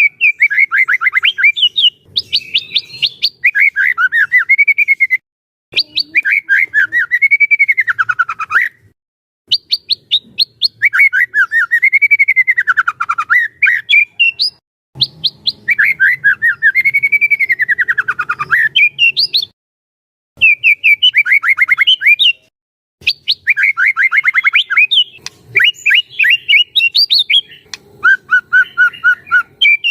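White-rumped shama (murai batu) singing energetically in a string of phrases of rapid chattering notes. Several phrases arc down and back up in pitch, and the phrases are separated by brief pauses.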